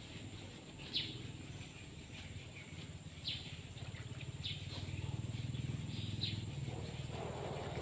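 A bird giving short, falling chirps every second or two over a low steady hum that grows a little louder about halfway through.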